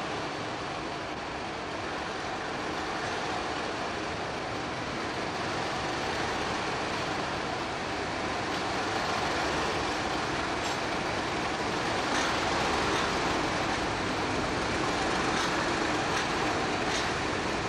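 A train running through a station, a steady rumble and rush of noise that slowly grows louder. Light clicks and ticks come in over the second half.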